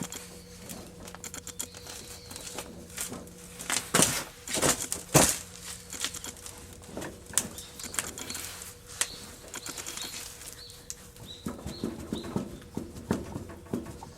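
Scattered clicks and knocks, two of them louder about four and five seconds in, with a few short bird chirps later on.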